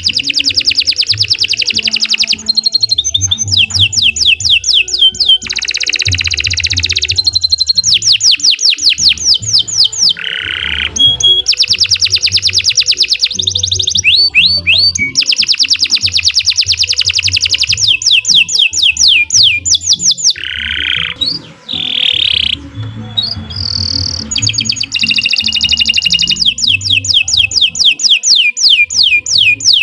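Domestic canary singing a long song of fast trills: phrases of rapidly repeated notes, some rolling and some sharp, follow one another with only short breaks between them.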